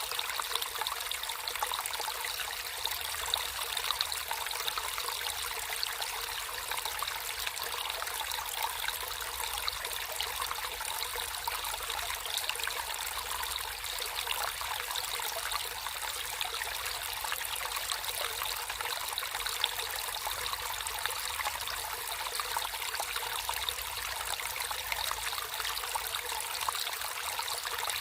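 Water trickling and flowing steadily over stones in a shallow stream, a continuous bright babble without any break.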